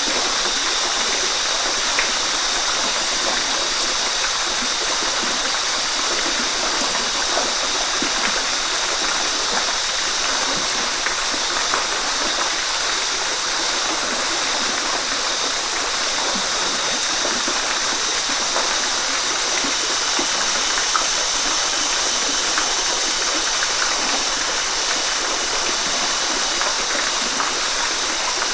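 Waterfall: water pouring and splashing steadily, a continuous hiss with small splashes scattered through it.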